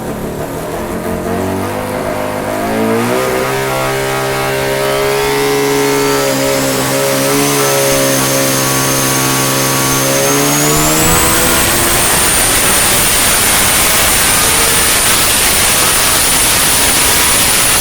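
Bridge-ported Mazda 13B rotary engine with a Borg Warner turbocharger, running on an engine dyno and climbing steadily in revs from about three seconds in. A high whine rises with it, steps up, and holds at the top until the revs drop off at the very end.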